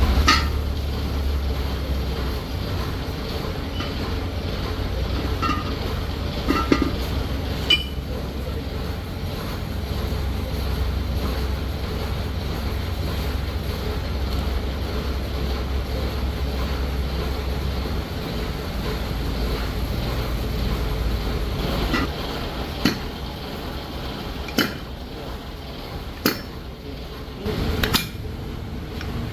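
A steady low rumble with scattered sharp metal clinks and knocks, as of heavy gearbox parts being handled, more frequent in the last few seconds.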